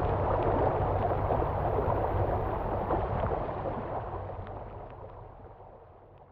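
Water gurgling and splashing around a fishing kayak, with a low rumble underneath; it runs steadily, then fades out over the last few seconds.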